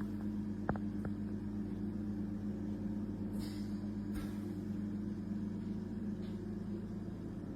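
Steady low hum of an idling vehicle engine, with a faint click about a second in.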